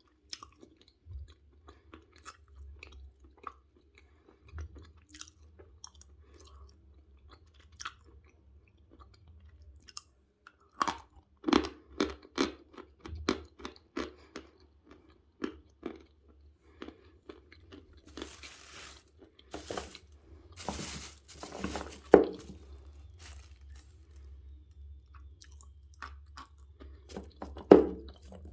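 Plates of natural Vasilpolye chalk being bitten and chewed close to the microphone: scattered small crackles at first, then a run of loud, crisp crunches from about eleven seconds in, with sharp snapping bites near the end.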